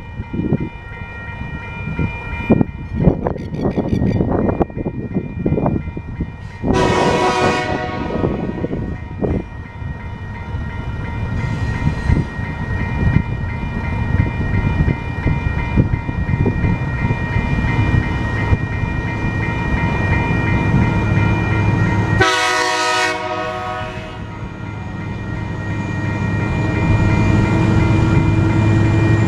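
TasRail TR-class diesel locomotives hauling a freight train through a level crossing: two long horn blasts, about seven seconds in and about twenty-two seconds in, over the low running of the diesel engines, which grows louder near the end. Steady ringing tones of the crossing's warning bells sound throughout.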